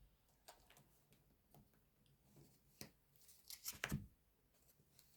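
Near silence with a few faint rustles and clicks of tarot cards being handled, the strongest cluster about three to four seconds in.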